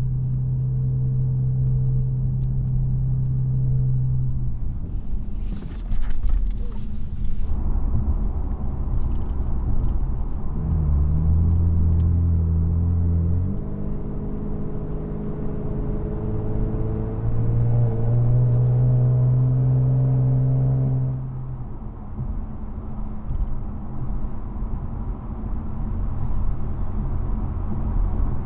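Cabin sound of an Infiniti Q60's twin-turbo VR30 V6 through lower downpipes and a 2.5-inch AFE catback with the resonators kept: a steady low exhaust drone while driving, which the owner calls "real tin canish". The drone's pitch drops about ten seconds in and shifts again further on, and there is a short burst of noise about six seconds in.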